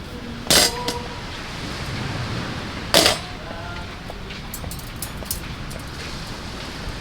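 Two sharp clanks, each with a short ring, about two and a half seconds apart, followed by a few faint clicks, over a steady background hiss.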